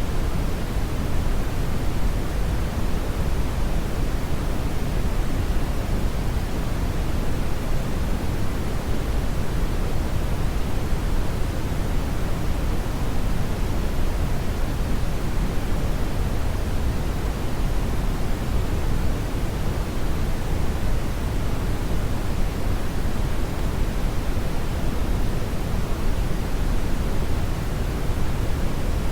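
Steady brown noise, an even rushing hiss weighted toward the low end, with no changes.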